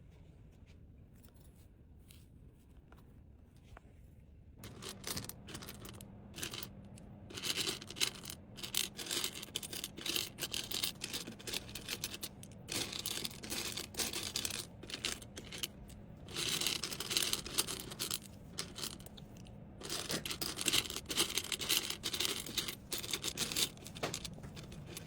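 Packaging being handled and torn: crinkling, rustling and tearing with many small clicks in irregular bursts, starting about four seconds in after a quiet start.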